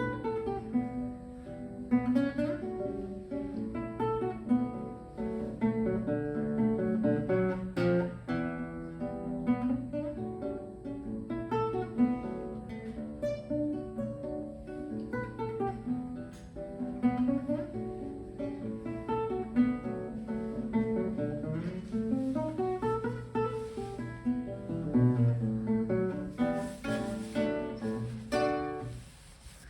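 Solo classical guitar playing a fast piece of plucked notes and strummed chords. Its last notes die away near the end.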